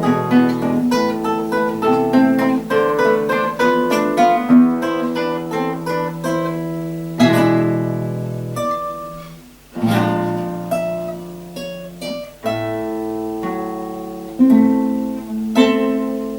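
Two guitars playing a duet: a quick plucked melody over bass notes, which about halfway through gives way to slower, separate chords left to ring. The last chord dies away near the end.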